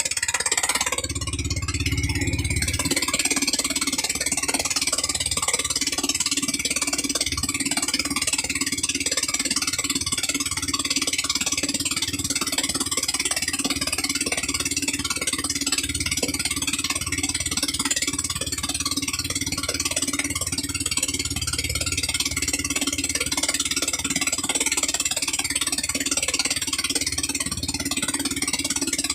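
13 HP gasoline engine running steadily at a constant speed, with a fast even firing pulse and a strong hiss over it.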